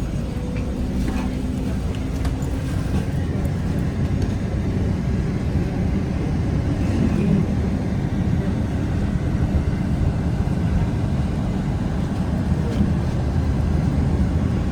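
Steady rumble of a vehicle in motion, heard from inside, with no sudden events.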